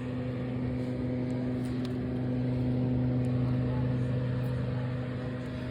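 Fireplace heat-recovery unit's fan running, a steady hum over a rush of air, with a few faint ticks.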